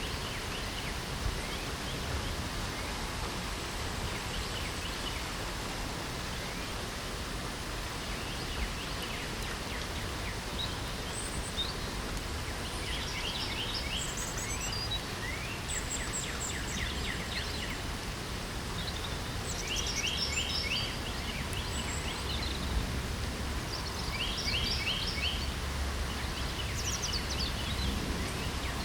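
Steady hiss of light rain, with birds singing over it: scattered calls at first, then repeated quick trills from about halfway through.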